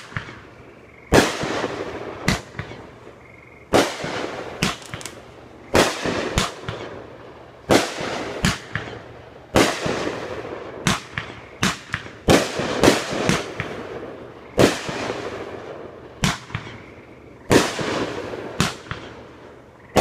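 Multi-shot consumer firework cake firing its shots one after another: sharp bangs every second or two, some in quick pairs, each trailing off in crackle and echo.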